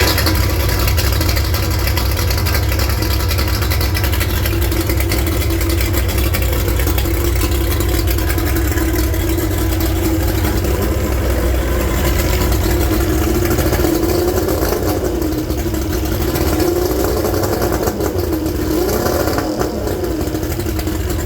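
Mercury 150 XR6 two-stroke V6 outboard engine running steadily near idle, its pitch wavering a little in the second half.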